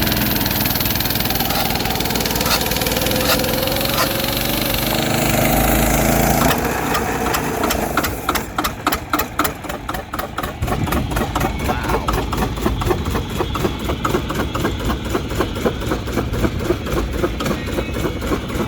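Large old single-cylinder four-stroke engine, rated 25 hp. It opens with a rising whine over rushing noise for about six seconds, then from about eight seconds in settles into a slow, even beat, running at low speed of around 300 rpm against a rated 900.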